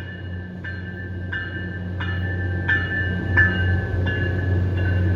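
A train's bell ringing steadily, about three strikes every two seconds, over the low steady hum of the train, which grows louder as it approaches.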